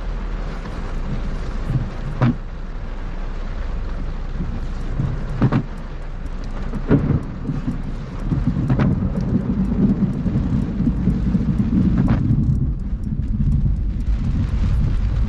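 Thunderstorm: steady heavy rain under a low rumble of thunder that grows louder about halfway through, with a sharp crack every few seconds.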